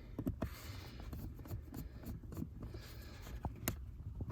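Light scratching and scattered clicks of plastic interior trim being worked loose by hand, with a steady low hum beneath.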